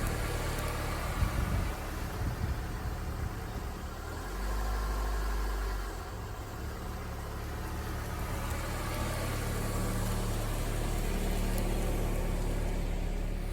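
Honda HR-V heard from outside the vehicle, engine running, with noise from brake rotors that carry a light coat of surface rust after two weeks parked in the rain. A few sharp knocks come about one to two and a half seconds in.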